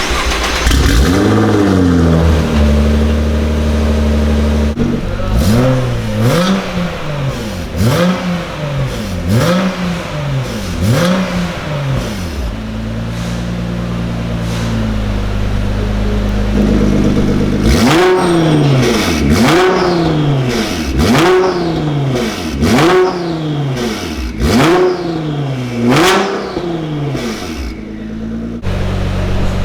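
Nissan GT-R R35's 3.8-litre twin-turbo V6 (VR38DETT) through a full decat IPE exhaust, revved in a string of quick throttle blips, about one a second, each rising and falling in pitch. The engine drops back to a steady idle for a few seconds in the middle before the blips resume.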